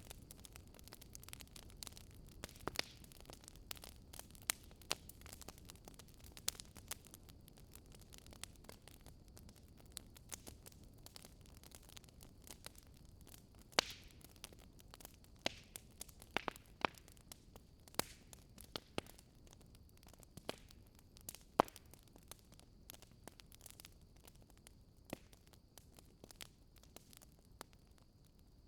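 Wood fire crackling: irregular sharp pops and snaps of burning wood over a low steady hiss, with a few louder pops in the middle.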